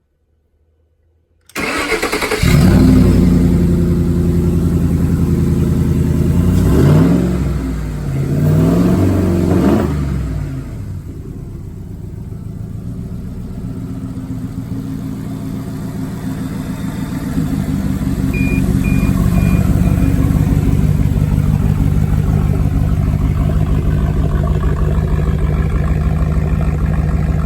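Pallet-mounted 2012 Ford F-150 5.0 Coyote V8 starting after a brief silence, catching quickly into a fast idle and revved twice before it settles to a lower idle. The idle rises again later, and three short high beeps sound near the middle.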